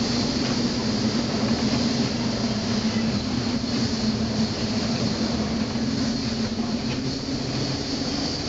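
A steady mechanical drone with a constant low hum under a rushing noise, unchanging throughout.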